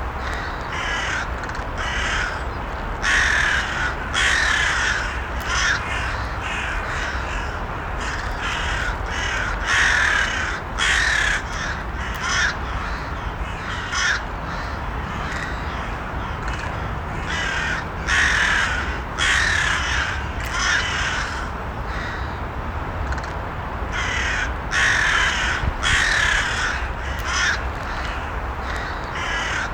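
Crows cawing again and again, many short harsh calls in quick irregular runs, over a steady low background rumble.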